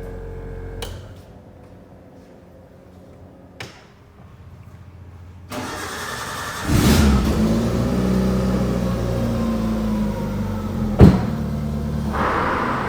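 Turbocharged 1.6-litre Maruti Gypsy engine starting about seven seconds in, then settling into a steady idle. There is a single sharp bang about four seconds after it starts.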